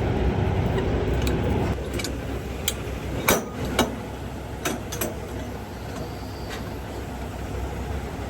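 Diesel truck engine idling steadily, with several sharp metallic clinks and clacks in the middle stretch. The engine sound drops in level after a couple of seconds.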